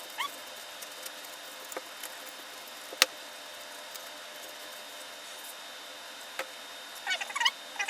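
Quiet workbench room tone with a few faint clicks and taps, one sharper click about three seconds in. A cat meows near the end.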